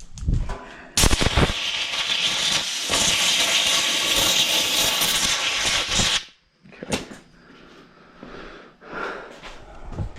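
Compressed-air blowgun blowing out a push-mower engine's dirty vent breather: a loud, steady hiss that starts with a sharp burst about a second in and cuts off suddenly after about five seconds, followed by a few light knocks.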